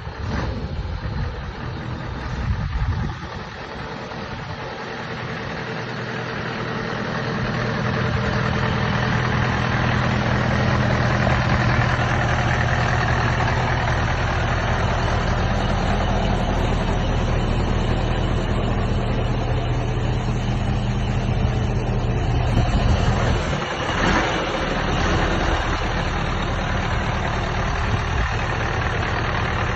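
Mercedes-Benz 2638 dump truck's V8 diesel engine idling steadily, growing louder over the first several seconds and then holding an even note, with a brief change in the sound about three quarters of the way through.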